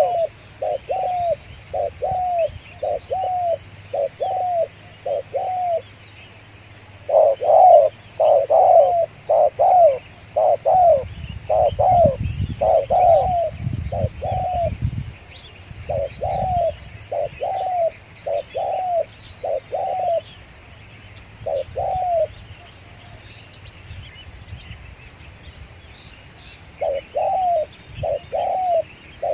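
Spotted doves cooing: runs of short, repeated coo notes, about one to two a second, broken by a few pauses, with a steady high-pitched hiss underneath.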